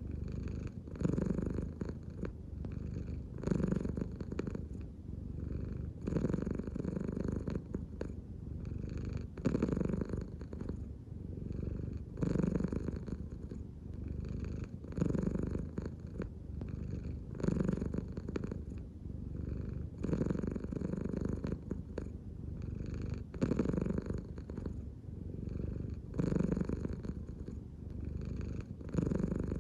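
American Shorthair cat purring steadily, the purr swelling and easing with each breath about every two and a half to three seconds.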